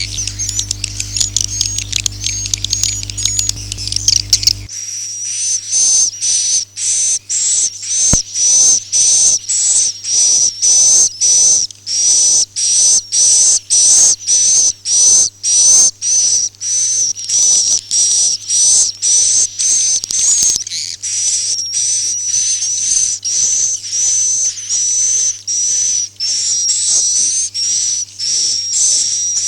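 Swiftlet lure recording: swiftlet chirping calls repeated rapidly, about two a second, high-pitched and wavering. A low hum under the calls stops about five seconds in.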